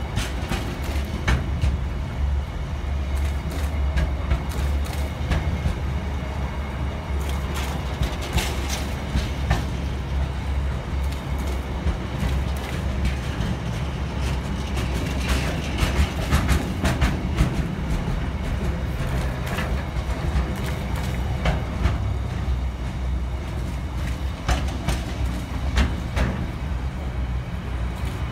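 Loaded container flat wagons of a freight train rolling past at close range: a steady low rumble with many irregular clicks and clacks from the wheels on the rails.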